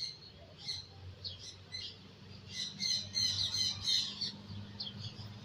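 Birds chirping and squawking in quick short calls, busiest about halfway through, over a low steady hum.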